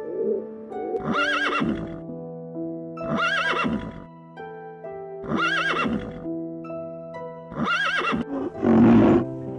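A horse whinnying four times, each call about a second long with a quavering pitch and all four alike, over background music with plucked notes. A louder, rougher burst comes near the end.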